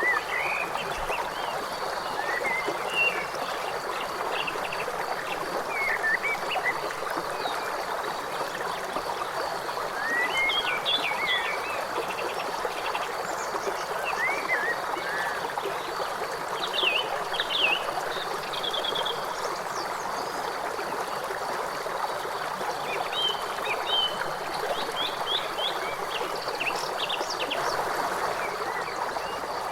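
River water flowing steadily, with birds chirping and singing in short phrases over it throughout.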